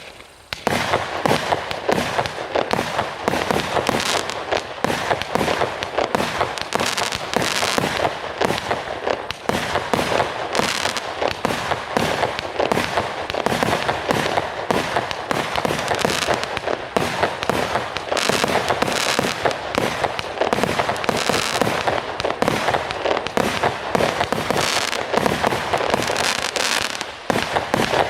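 A 100-shot, 0.6-inch-calibre consumer fireworks cake ('Panda', OC6030) firing in rapid, continuous succession: a dense volley of launch thumps and aerial bursts that begins about a second in.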